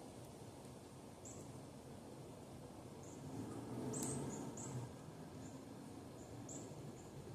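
Northern cardinal giving short, high chip notes, about nine at irregular intervals, several close together near the middle, over a faint low rumble.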